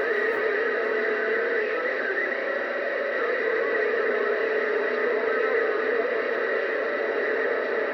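CB radio receiver on an idle channel giving out a steady hiss of static, with a faint whistle wavering slightly up and down in pitch under it.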